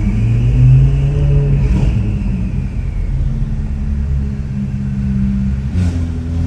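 Ferrari 488 Pista's twin-turbo V8 through a custom Ryft exhaust, revving up in a short burst that peaks just under a second in, then settling to a steady engine note. A brief click comes near the end.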